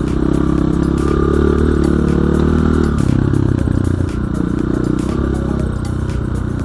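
Enduro motorcycle engine running under way, with clattering knocks from the bike over rough ground; the engine note drops back about three seconds in.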